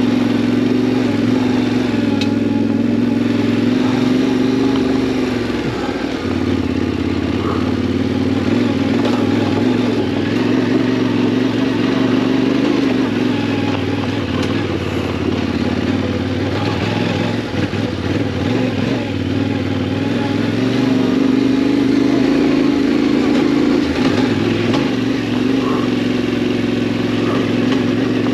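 Yamaha Ténéré 700's parallel-twin engine running under way, with a steady note that dips briefly twice as the throttle eases and picks up again.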